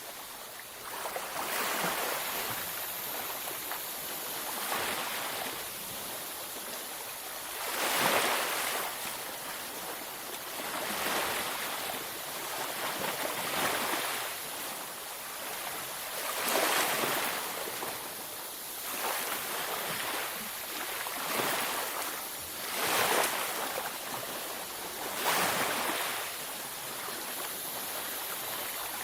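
Ocean waves breaking and washing up a beach, a continuous surf with a fresh swell every few seconds.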